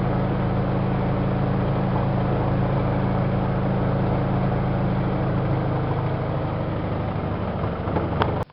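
Miele Softtronic W3657 WPS front-loading washing machine spinning, a steady drone from the motor and drum, most likely the 1600 rpm spin of a 60 °C colour wash. The drone eases slightly about six seconds in, then cuts off suddenly with a click near the end.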